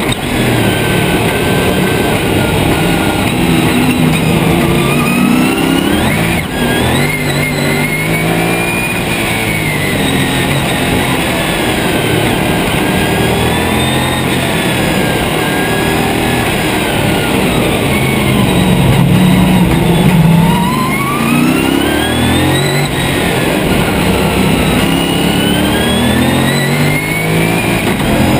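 Lotus Esprit V8 race car's engine at racing speed, its pitch climbing under acceleration and dropping when the driver lifts off, over and over. There is a sharp click about six seconds in.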